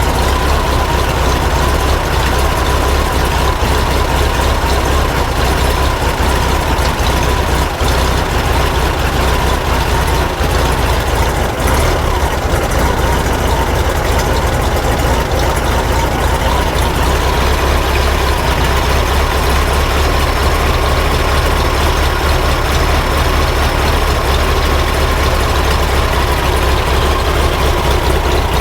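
Freshly rebuilt air-cooled flat-four engine of a 1950s VW Bus idling steadily.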